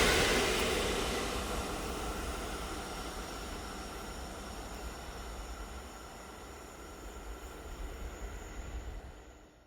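A train moving away after passing, its rolling noise fading steadily from loud to faint, with faint steady tones from the wheels and running gear.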